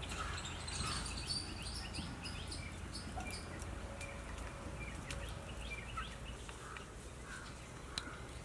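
Small bird singing: a quick run of short, high, falling chirps, about four a second, through the first three seconds or so, over a faint steady background with a few soft clicks.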